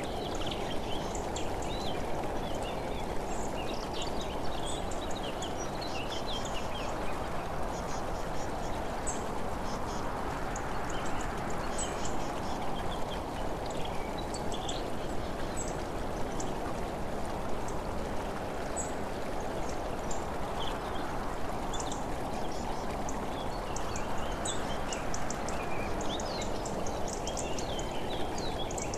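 Small birds chirping and twittering again and again over a steady rushing noise.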